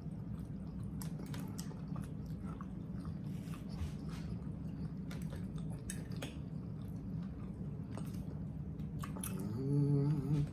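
Close-up eating sounds of people chewing beef liver in gravy: irregular wet mouth clicks and squishes. A short hummed voice sound comes near the end.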